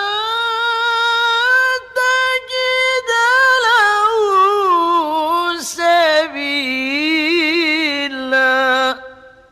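A male Qur'an reciter chanting one long melodic phrase in mujawwad style. The voice climbs in pitch over the first second, winds through quick ornamental turns and wavering in the middle with a few short breaks, then settles on a lower held note and stops just before the end.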